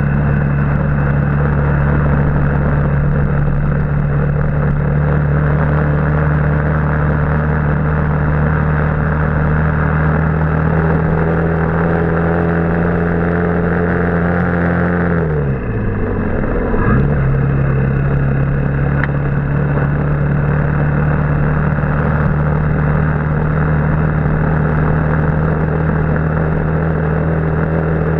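Motorbike engine running at steady speed under the rush of riding wind. About fifteen seconds in the engine note drops sharply, then climbs back within about two seconds and runs on slightly lower.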